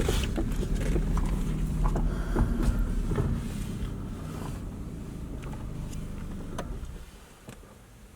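Car engine running low as the car creeps forward, with a few light knocks; the hum fades and drops away about seven seconds in.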